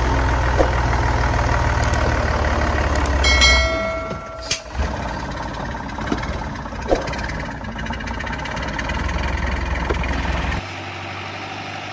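Heavy truck engine running hard under load, with a short high-pitched squeal about three and a half seconds in, after which the engine sound drops and becomes rougher, with a few sharp knocks.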